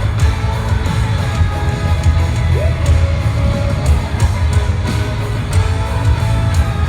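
Pop-rock band playing live: loud drums, bass and guitar with singing, and shouts from the crowd mixed in.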